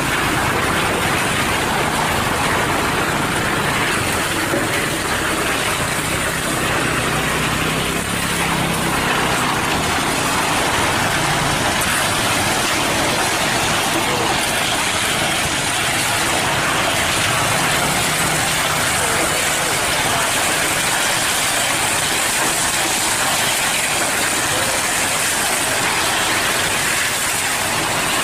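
Hino cement mixer truck's diesel engine running steadily under a constant dense mechanical noise, its low engine tone stronger in the first ten seconds or so.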